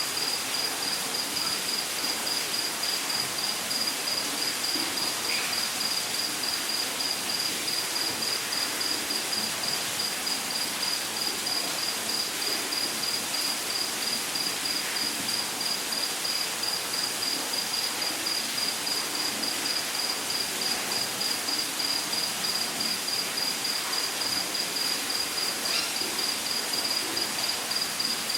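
A cricket-like insect trilling without a break, one high, rapidly pulsing note, over a steady hiss of rushing water from a waterfall.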